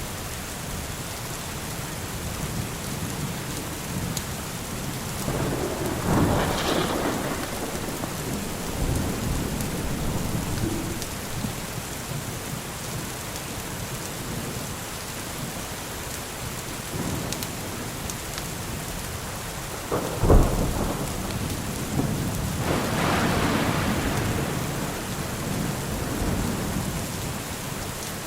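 Steady rain with thunder: a long rolling rumble about a quarter of the way in, then a sharp, close thunderclap, the loudest sound, followed straight after by another long rumble.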